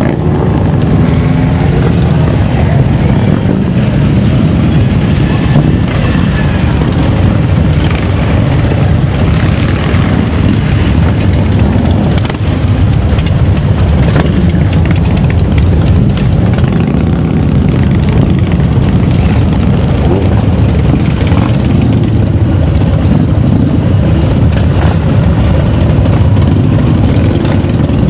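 Loud, continuous engine noise from motor vehicles driving past, with engines revving up and down now and then.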